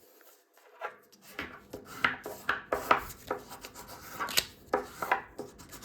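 A sheet of A4 paper being handled, folded and creased by hand, making irregular crinkles and small taps that start about a second in.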